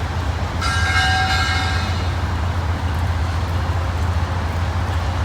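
Approaching freight train, its diesel locomotives rumbling low and steady, with a short chord-like horn blast about a second in.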